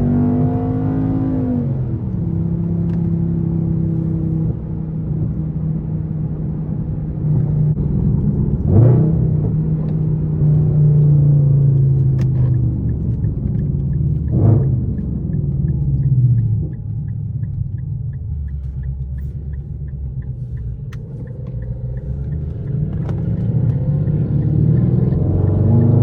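Straight-piped Infiniti M56's 5.6-litre V8 exhaust under way. It rises in pitch briefly and then drops back to a steady low drone. There are two quick sharp revs, about a third of the way in and a little past halfway, and it climbs again near the end as the car accelerates.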